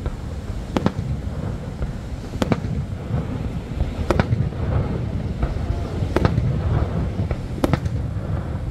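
Aerial fireworks shells bursting, five sharp bangs about one and a half to two seconds apart, over a steady low rumble.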